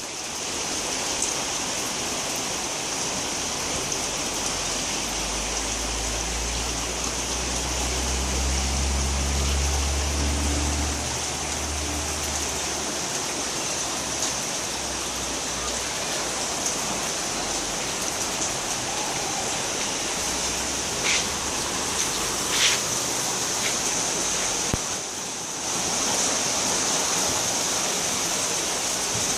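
Floodwater rushing steadily, swollen by days of nonstop rain. A low drone rises and fades in the middle, and a few faint clicks come later.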